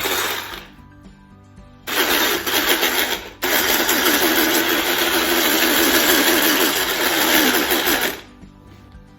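Electric hand mixer on its low setting beating batter in a bowl, switched on and off: a short run, about a second off, a run of a second and a half with a brief dropout, then a steady run of about five seconds that stops near the end.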